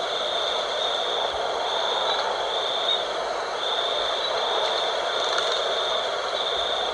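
Night wind blowing steadily, an even rushing noise, with a high trilling note repeating in spells of about a second over it.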